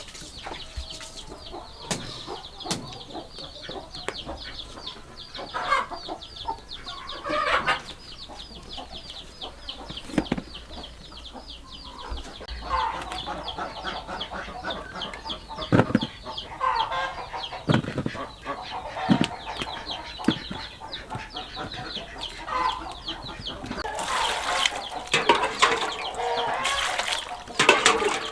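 Birds calling: a dense, rapid high chirping throughout, with bursts of lower clucking calls and a few sharp knocks.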